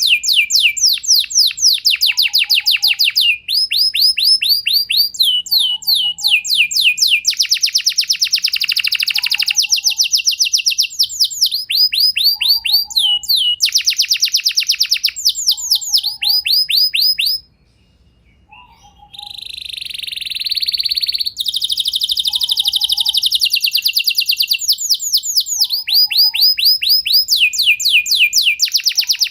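Domestic canary singing a long, continuous song of fast trills: each phrase is a rapid run of repeated notes sweeping downward, switching to a new phrase every second or two. About two-thirds of the way through the song breaks off briefly, resumes with a rougher, noisier roll, then goes back to the trills. A faint short low note repeats about every second and a half underneath.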